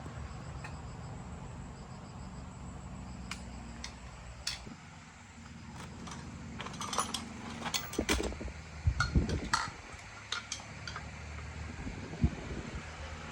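Metal tools and parts clinking and clanking in a scattered series of sharp knocks, busiest towards the middle, over a low steady hum.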